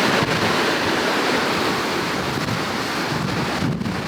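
Ocean surf washing steadily against the shore, the waves rough, with wind buffeting the microphone as a low rumble.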